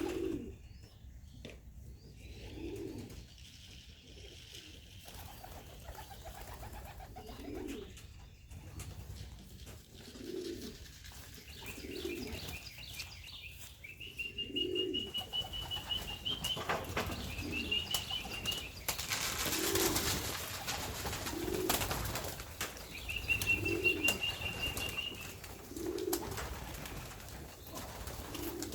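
Racing pigeons in a loft cooing over and over, a call every second or two, with bursts of wing flapping about two-thirds of the way through. A high, thin wavering tone is held for a couple of seconds twice in the second half.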